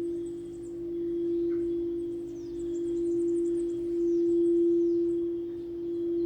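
Singing bowl sustaining one steady low tone that swells and fades in a slow pulse about every second and a half. Faint high chirps sound in the background.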